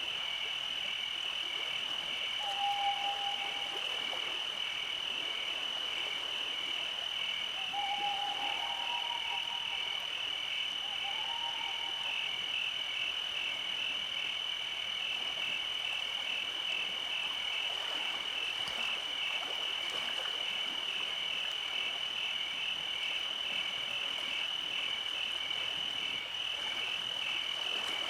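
Night chorus of frogs: a steady, rapidly pulsing high trill, with a few short, lower calls about three, eight and eleven seconds in.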